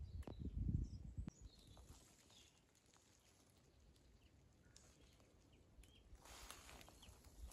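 Faint, scattered chirps of small birds. Low rumbles on the microphone in the first second, and a short rustling hiss about six seconds in.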